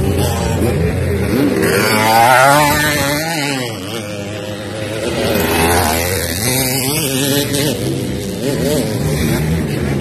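Motocross dirt bike engines revving as they race on the track, the pitch rising and falling. The engine noise is loudest about two seconds in and again near six seconds.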